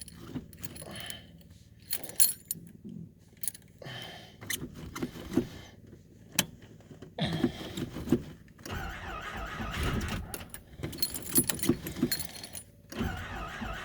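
Car keys jangling and clicking as they are handled. About two-thirds of the way in, a car engine begins a low, pulsing sound as it is started cold; it breaks off briefly near the end and then resumes.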